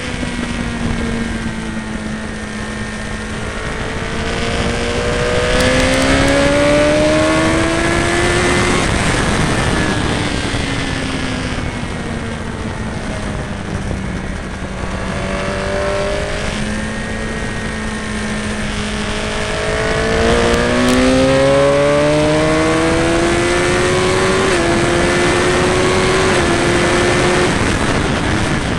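High-revving sport motorcycle engine heard from on board, with wind rushing past the fairing. The engine pitch falls as the bike slows for corners and climbs under hard acceleration, twice, and near the end steps down twice as the rider changes up through the gears.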